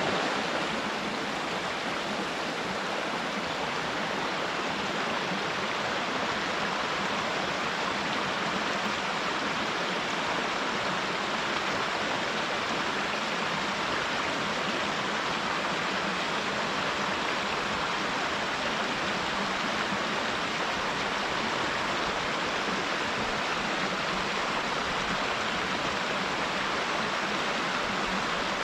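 Waterfall in a mountain stream: a steady, unbroken rush of falling water that holds an even level throughout.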